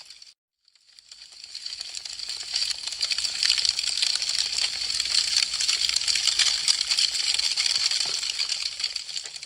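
Wood fire crackling: a dense, continuous stream of small sharp pops and snaps. The sound cuts out for a moment just after the start, swells back up over the next couple of seconds, and tapers off near the end.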